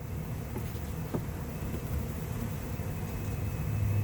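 Honeybee colony buzzing steadily in an opened hive, with a couple of light knocks about half a second and a second in.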